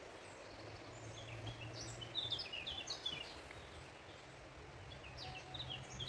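Small songbirds chirping in short, quick phrases, a cluster about two seconds in and another near the end, over a steady outdoor hiss.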